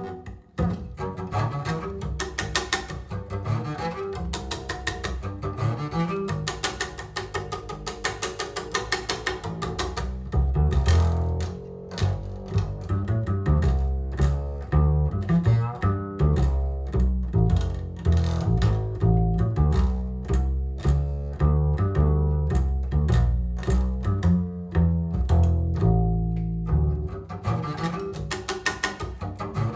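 Recorded music: a double bass played pizzicato, a dense line of plucked low notes, each one ringing and decaying.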